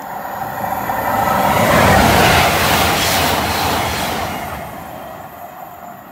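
Passenger train passing through the station: a rushing of wheels on rail and air that swells to its loudest about two seconds in, then fades as the train recedes.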